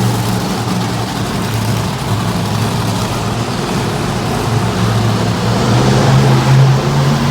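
Monster truck engine running loud and steady in an arena, swelling a little about six seconds in.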